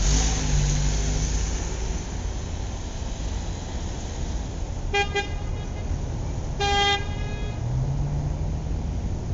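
Garbage truck running steadily, with a low drone at the start that returns near the end. Its horn honks twice: a short double toot about five seconds in, then a longer toot soon after.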